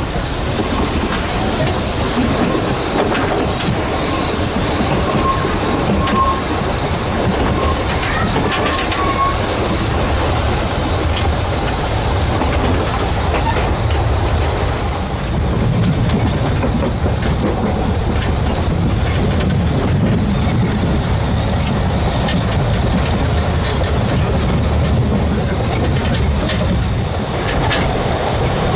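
Narrow-gauge steam train's coaches running steadily along the track, heard from an open carriage window: wheels clattering over the rails and the carriage rattling.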